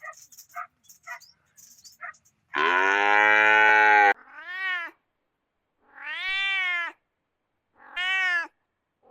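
A cat meowing: a few faint clicks, then one long loud call followed by three shorter meows that rise and fall in pitch.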